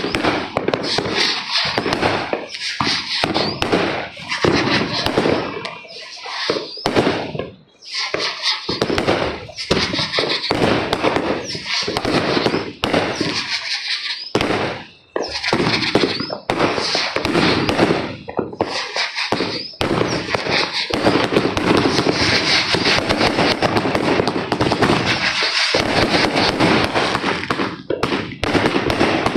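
Fireworks and firecrackers going off in rapid, overlapping volleys of sharp bangs and crackling, with brief lulls, becoming nearly continuous in the second half.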